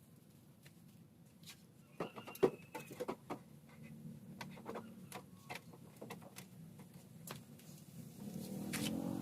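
A run of sharp clicks and light knocks, scattered over several seconds from about two seconds in, then a low rumbling noise that swells near the end.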